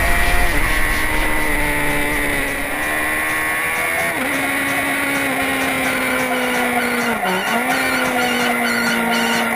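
Onboard sound of a 2006 Honda CBR1000RR's inline-four engine at speed with wind rush. The engine note drops in the first second as the bike slows, then holds fairly steady, with a brief dip and recovery about seven seconds in.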